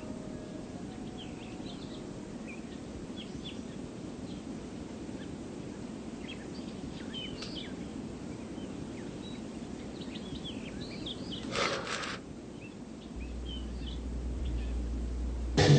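Small birds chirping here and there, faint, over a steady hiss. A short burst of noise comes about eleven and a half seconds in, and a low hum joins near the end.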